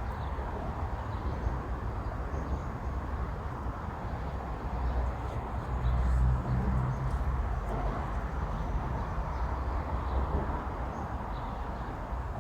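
Steady outdoor background noise with a low rumble, swelling briefly about five to seven seconds in.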